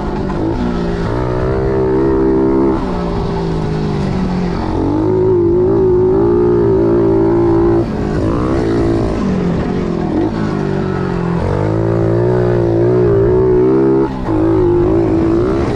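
Pit bike's small single-cylinder engine under way, the rider opening and closing the throttle: the pitch climbs and holds several times, with sharp drops about a third of the way in, halfway through and near the end.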